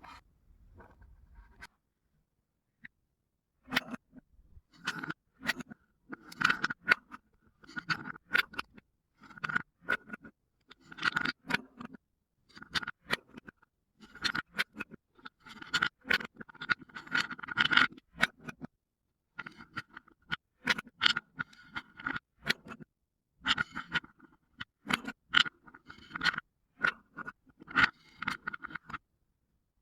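Marbles rolling and clattering down a marble run track: bursts of rattling clicks, starting a few seconds in and going on with short pauses.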